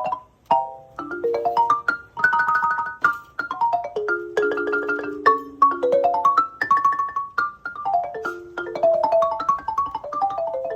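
Marimba played with mallets: quick runs of struck notes rising and falling, and repeated two- and three-note chords, each note ringing briefly before the next.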